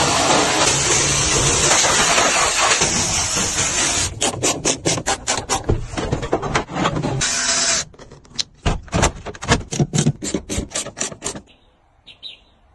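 Car being cleaned by hand: a dense, steady hiss for about four seconds, then quick back-and-forth rubbing strokes, about three a second, that stop shortly before the end.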